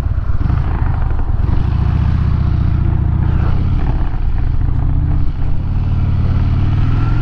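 Harley-Davidson Dyna Wide Glide's V-twin engine running steadily while riding, with wind and road noise; the revs begin to climb at the very end.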